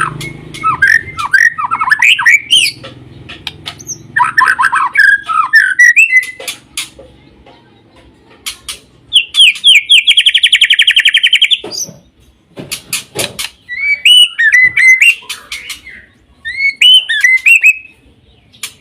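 White-rumped shama (murai batu) singing in bursts of quick whistled phrases that sweep up and down, with a long fast trill about halfway through followed by a few sharp clicks.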